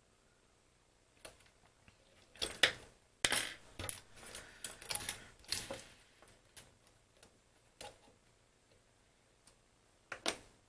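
A flurry of light clicks and taps from small hard parts being handled on a workbench, thickest in the first half. A few sparse clicks follow, then two sharp clicks near the end.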